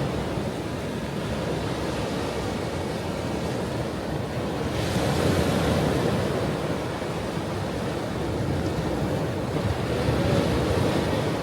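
Ocean surf washing onto a shore in a continuous rushing noise, with a louder wave breaking about five seconds in and another swell near the end.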